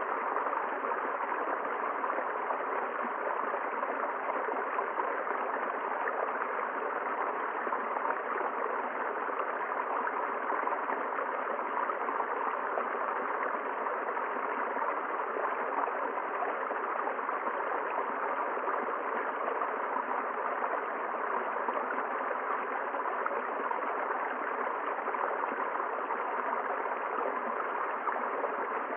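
River water flowing in a steady rush and gurgle, unchanging throughout.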